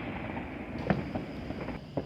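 Distant consumer fireworks: a few scattered sharp pops over a steady background rumble of noise, the clearest pop about a second in and another at the very end.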